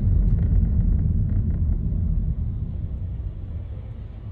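Low rumble of a passing motor vehicle, loud at first and fading away over the last two seconds.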